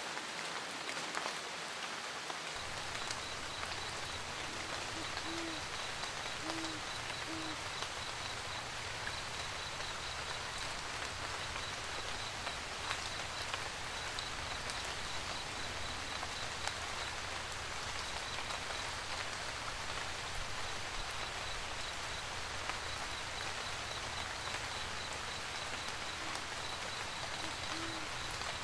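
Steady rain falling on a roof, with an owl hooting in two short runs of three hoots, one about five seconds in and one near the end.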